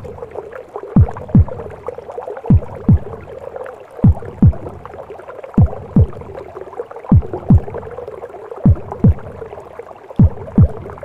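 Slow heartbeat in a steady lub-dub rhythm: pairs of low thumps, one pair about every one and a half seconds, seven in all. Under it runs a constant rushing womb-sound noise.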